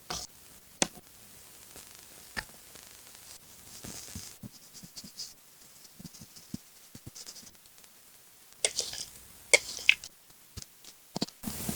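Paper and stationery being handled while assembling a paper collage card: scattered sharp clicks and taps, soft paper rustles, and a cluster of louder clicks and scrapes about nine seconds in.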